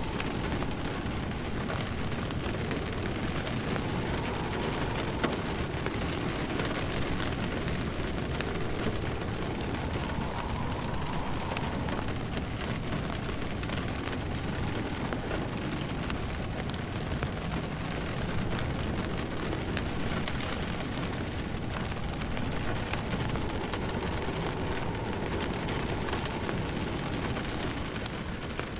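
Steady rain falling together with a wood fire crackling in a fireplace, in an even, unbroken mix.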